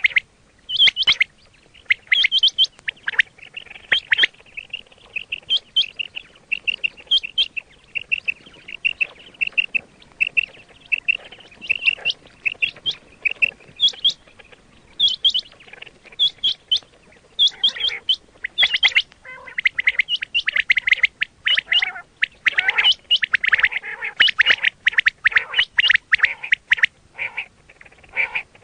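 Quail calling over and over in short, sharp chirps: a quick even run of chirps through the first half, then denser overlapping calls from about two-thirds of the way in, as used to lure quail for hunting.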